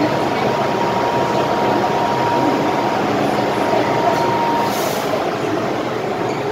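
MTR M-Train electric metro train running between stations, heard from inside the car: a steady rumble of wheels and running gear, with a thin high whine that stops about three-quarters of the way through.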